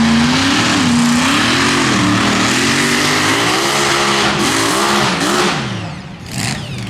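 Pulling tractor's engine running hard and loud, its pitch wavering up and down as the revs rise and fall, then dropping away about six seconds in.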